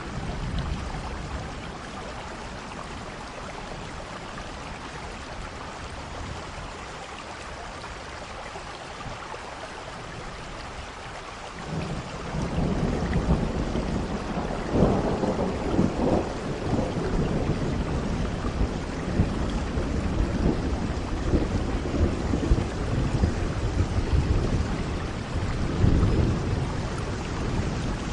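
Steady rain falling, joined about halfway through by rolling thunder that rumbles on and swells several times.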